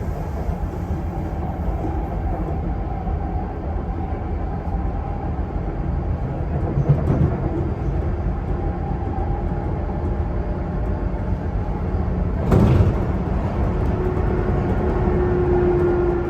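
Sotetsu 8000 series electric train running at speed, heard inside a motor car: a steady low rumble of wheels and running gear. About twelve seconds in there is a brief loud burst of noise, and near the end a steady motor tone comes in.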